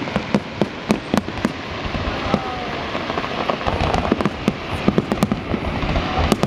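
Fireworks display: rapid, irregular bangs and cracks of bursting shells, several a second, over a steady crackling haze.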